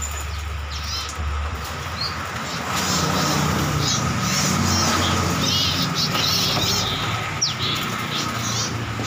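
Many small birds chirping and twittering, short overlapping calls with now and then a quick falling whistle, over a steady low hum.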